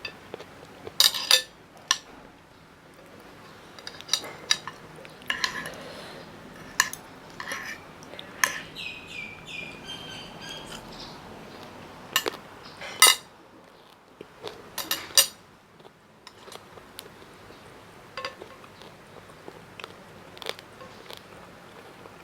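Close-miked eating sounds: cutlery clinking and scraping against a dish in sharp, irregular clicks, with a brief ringing tone about halfway through.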